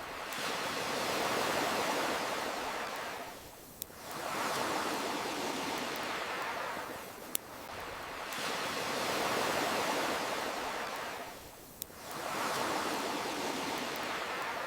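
Ocean surf washing in and out in slow swells about every four seconds. Three single sharp pops, one in each lull between swells, from a crackling wood fire.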